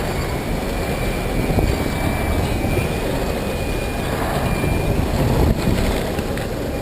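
Electric street-carver skateboard rolling along: a steady low rumble of wheels and ride noise with a faint thin high whine.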